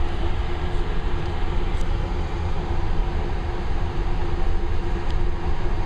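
Automatic car wash drying blowers running steadily, heard from inside the car: a loud, even rush of air with a constant hum.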